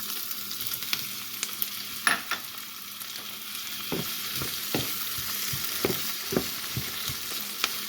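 Onions and freshly added tomatoes sizzling in hot olive oil in a skillet, a steady hiss with scattered pops and spatters and the occasional clink of a utensil stirring.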